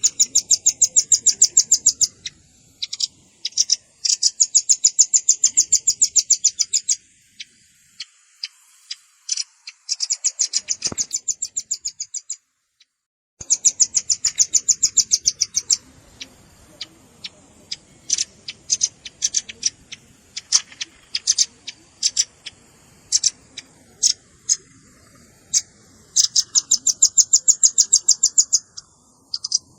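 Velvet-fronted nuthatch calling: fast trills of sharp, high chip notes in runs of one to three seconds, with scattered single chips in between. The calling breaks off for about a second near the middle.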